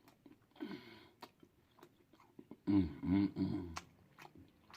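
Close-up mouth sounds of eating noodles: scattered small wet clicks of chewing. A short voiced sound comes about half a second in, and a louder stretch of voice comes near three seconds as he starts to speak.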